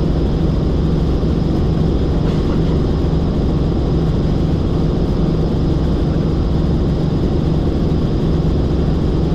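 Helicopter in flight: a steady engine and rotor drone with several constant low tones, unchanging throughout.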